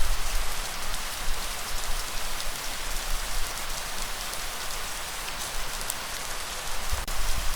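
Steady heavy rain falling, a dense even patter, over a low rumble that swells near the start and again near the end.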